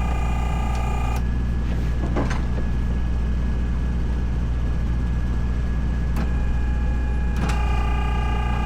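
Engine running steadily with a deep hum. Near the start, and again near the end, a high whine of several steady tones sounds over it, with a few sharp clicks in between.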